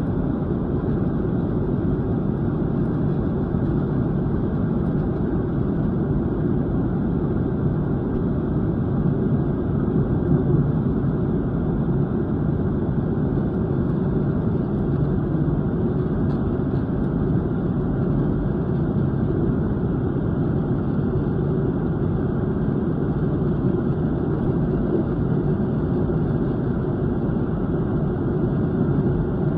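Steady jet-airliner cabin noise inside a Boeing 737-800: an even, low engine and air rush that holds level throughout, without any rise in pitch.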